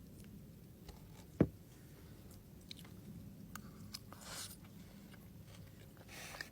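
Close-miked chewing and biting of food, with scattered small clicks. A single sharp knock about a second and a half in is the loudest sound, and there are short hissy noises later on.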